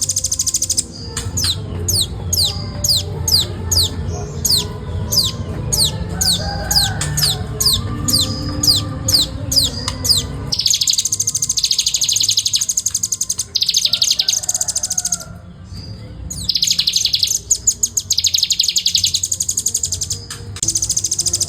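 Velvet-fronted nuthatch singing: a run of sharp, high, downward-sweeping notes, about two a second and quickening. These give way about ten seconds in to bouts of very fast, dense, high trilling, the tight continuous 'ngebren' rattle.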